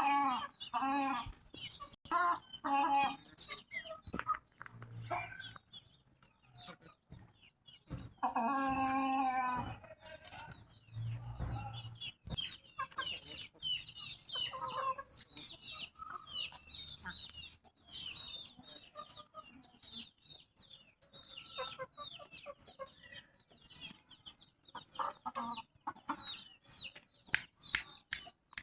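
Chickens clucking, with one longer steady call about eight seconds in. Through the second half come many short, high peeps from chicks.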